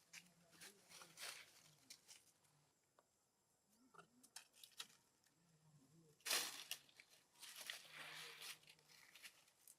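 Faint, intermittent rustling and crinkling: a handful of short, scratchy bursts, the loudest about six seconds in.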